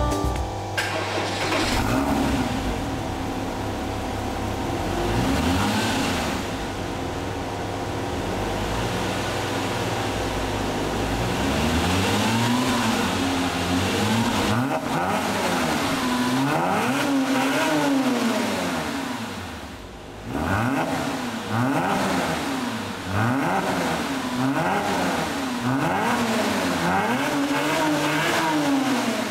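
A 2007 Porsche Cayman S's 3.4-litre flat-six engine revved again and again, its pitch climbing and falling in short arcs a second or two apart. The sound drops out briefly about two-thirds of the way through, then comes back abruptly.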